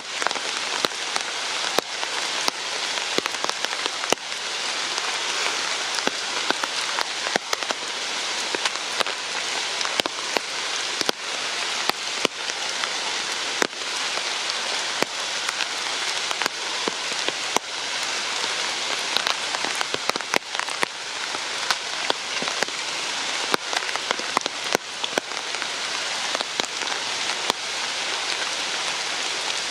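Steady rain falling, a continuous hiss with many sharp drop impacts landing irregularly on a nearby surface.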